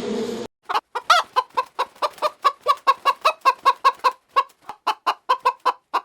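Chicken clucking in a quick, even run of short clucks, about four or five a second. It is preceded by a half-second of steady buzzing that cuts off abruptly.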